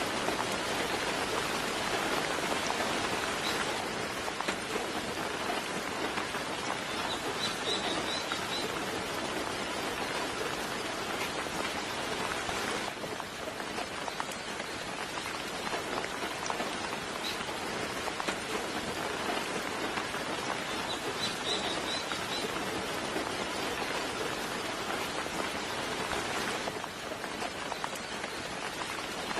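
Steady soft rain falling, an even hiss of drops, with faint high bird chirps breaking through a few times.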